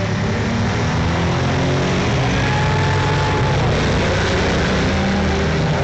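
Vintage race cars' engines running hard at speed in a loud, steady mass of engine noise. About three and a half seconds in, one engine's pitch drops as a car passes.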